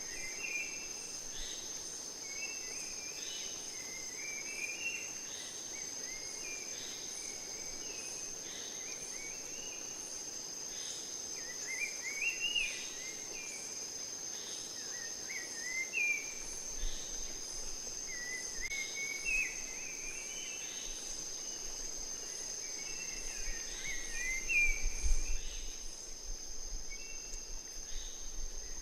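Rainforest-style nature ambience: a steady high-pitched insect trill with birds chirping in short, repeated phrases over it.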